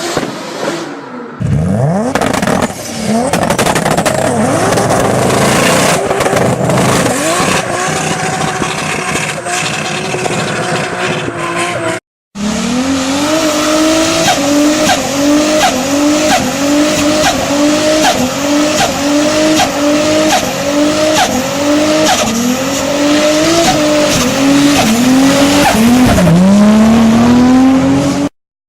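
Toyota Supra engine revving hard with tyres squealing in a burnout. A cut about 12 seconds in leads to a second clip in which the engine pitch climbs and drops back over and over, about once a second.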